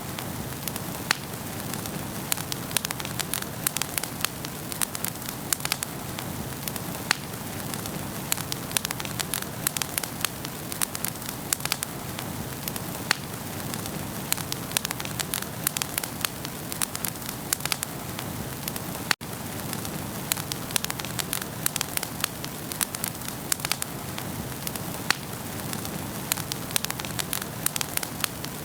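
Wood fire burning in a fireplace, crackling with dense, irregular pops and snaps over a steady low hiss. The sound cuts out for an instant about two-thirds of the way through.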